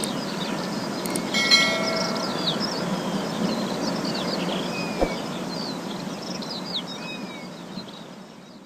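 Many small birds chirping over a steady noisy background, with one louder sharp sound about a second and a half in; it all fades out near the end.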